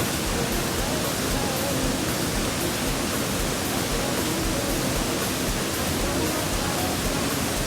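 Steady rush of a waterfall's falling water, an even, unbroken noise with faint voices beneath it.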